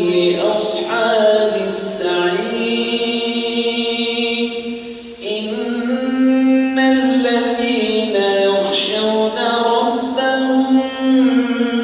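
A man's voice chanting Quranic recitation in a melodic tajweed style, drawing out long held notes with slow ornamental bends, with a short breath break about five seconds in.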